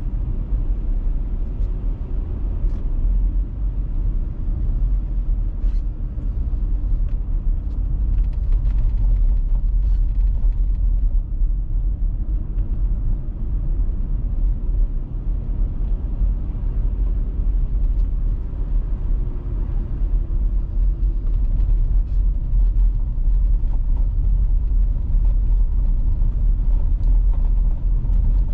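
A car driving at a steady pace, its engine and tyres making a continuous low rumble.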